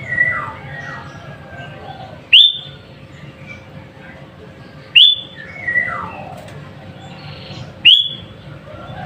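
Sooty-headed bulbul (kutilang) calling: three loud, short, sharp whistled notes about every two and a half to three seconds, with softer falling whistles between them, over a steady low hum.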